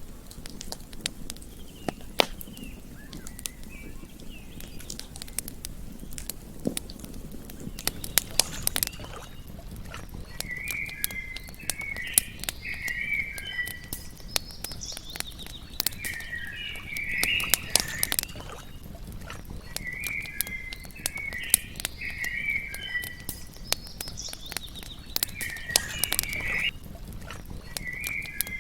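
Campfire crackling with frequent sharp pops. From about a third of the way in, chirping calls come in short bursts every four to five seconds.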